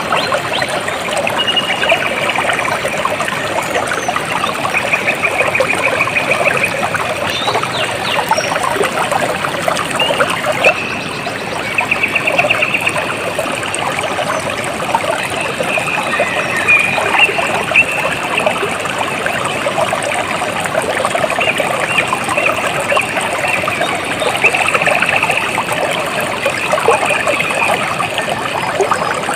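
A small stream trickling and babbling steadily. Short, high, trilling calls recur over it every few seconds.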